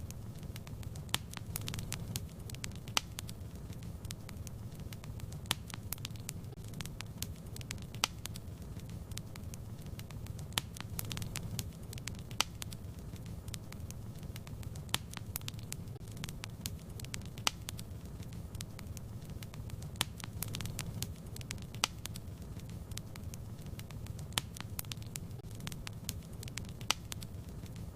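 Wood fire crackling steadily, with irregular sharp pops and snaps over a low, even rumble of burning.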